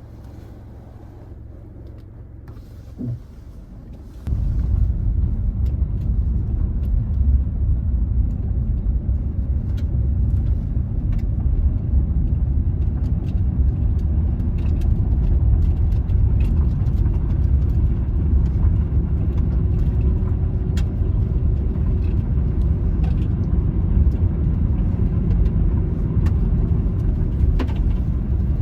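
Steady low rumble of a vehicle in motion, coming in suddenly about four seconds in after a quieter low hum with a single click.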